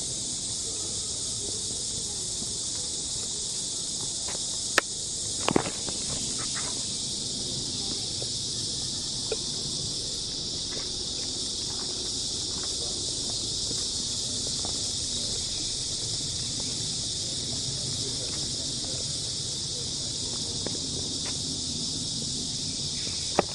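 Steady, high-pitched insect chorus that continues unbroken, with a couple of sharp clicks about five seconds in.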